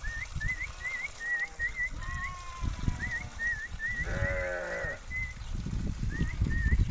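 Sheep bleating once for about a second, about four seconds in, over a string of short high chirps repeating throughout.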